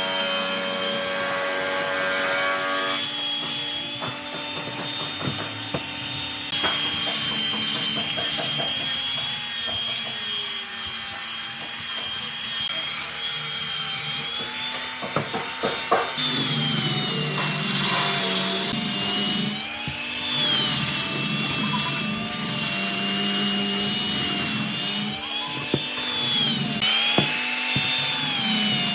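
Power tools working wood, in several short edited segments. A motor's whine rises and falls in pitch as it is loaded, most clearly in the second half.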